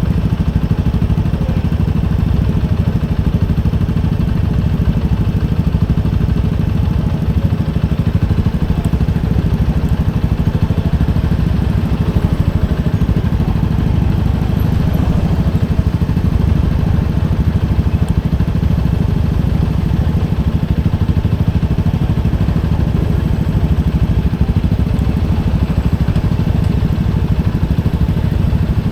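Motorcycle engine running steadily, its pitch unchanging.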